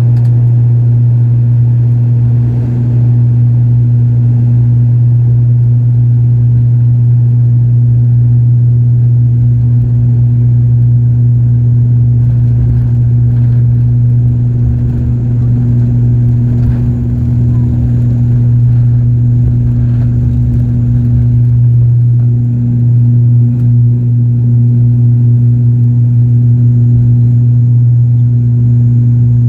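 Turboprop airliner's engines and propellers running with a loud, steady low drone, heard from inside the passenger cabin.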